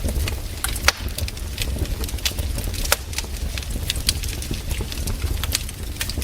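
Wood campfire crackling, with sharp irregular pops and snaps several times a second over a low steady rumble.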